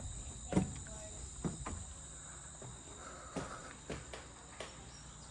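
Footsteps and a handful of irregular knocks, about six over a few seconds, as someone climbs into and walks inside a railroad passenger car, over a steady high-pitched insect drone.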